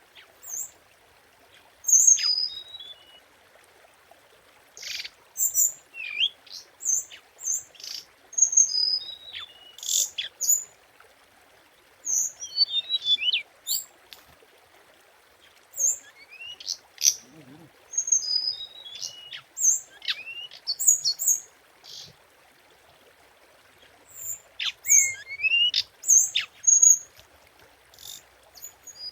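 Orange-headed thrush singing: a long series of short, high, varied phrases of sharp notes and quick falling whistles, with brief pauses between them, over faint steady background noise.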